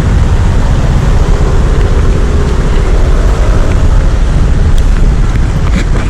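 Wind buffeting the microphone during a bicycle ride: a loud, steady rumble.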